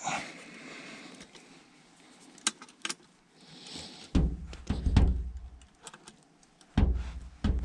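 Metal tools clinking, then two spells of heavy low thumps and strain as a wrench is forced against a seized gas valve fitting on a furnace.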